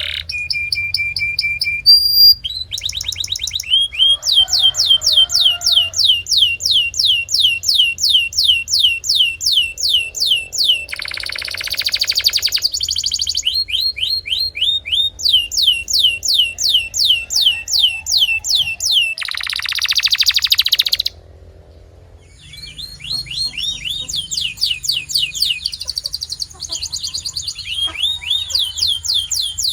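Domestic canary singing: long runs of fast, repeated down-sweeping notes, a short held whistle near the start, and two rapid buzzing rolls. The song breaks off for about a second a little past two-thirds through, then picks up again.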